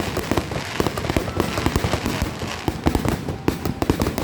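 Fireworks going off in quick, irregular succession: many overlapping bangs and pops with no pause.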